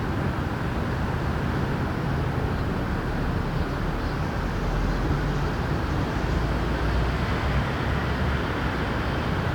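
Steady low hum of city traffic, an even rumble without clear separate events.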